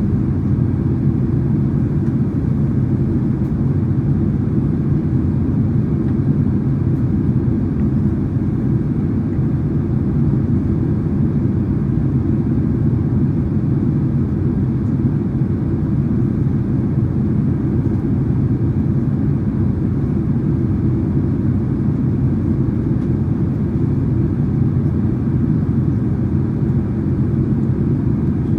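Steady low cabin rumble inside a Boeing 767-300ER in cruise: engine and airflow noise, even and unchanging.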